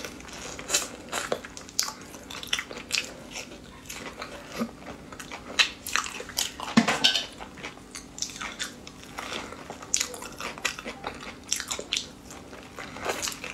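A person biting into and chewing soft durian flesh, with many short irregular mouth clicks and smacks.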